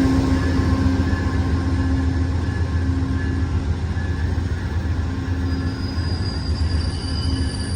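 Amtrak passenger train with diesel locomotives pulling slowly into a station: a steady low engine rumble and hum, with a thin high squeal from the slowing train joining in about five and a half seconds in.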